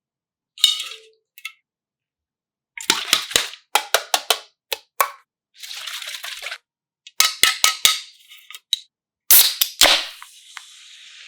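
A run of sharp pops and cracks in uneven clusters, with a short burst of hiss about six seconds in. After the last loud pops, a fizzing, splashing hiss fades away.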